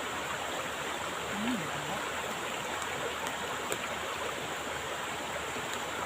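Steady rush of flowing stream water, a constant even hiss of the current.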